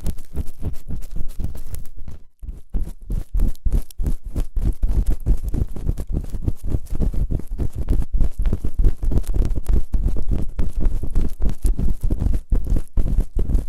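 ASMR ear-cleaning sounds on a binaural microphone: rapid, heavy scraping and rubbing right on the mic's ears, a fast run of short strokes with a brief pause about two seconds in.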